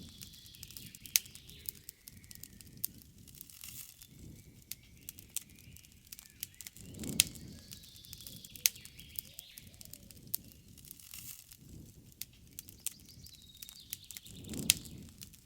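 Wood campfire crackling, with many sharp pops and snaps and two low rushing swells, at about 7 and 15 seconds. Birds call faintly in the background.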